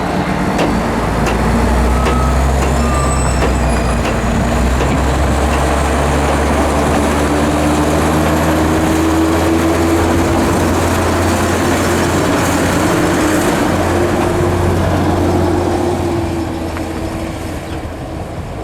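Ford L8000 garbage truck's diesel engine running hard, with a high whine slowly rising in pitch over it, fading over the last few seconds.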